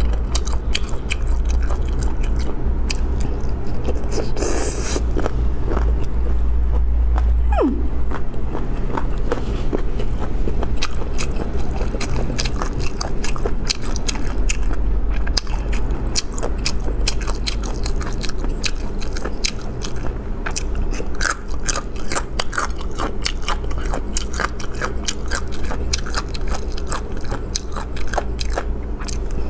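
Close-miked chewing and biting of spicy braised duck feet and cowhide: dense, irregular wet clicks and crunches of skin and cartilage, over a low steady hum.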